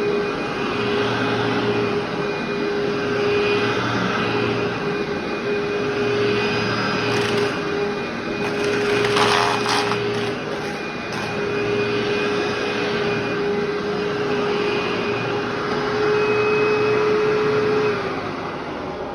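Vacuum cleaner running over carpet in slow back-and-forth strokes, its motor whine steady and the suction noise swelling and fading with each pass. There is a brief sharper burst of hiss about halfway through, and the motor tone stops near the end.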